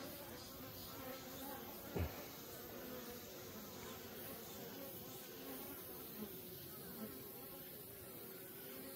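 Many Asian honeybees (Korean native bees) buzzing around their wild nest, a steady layered hum. About two seconds in, one bee's buzz passes close by, briefly louder and dropping in pitch.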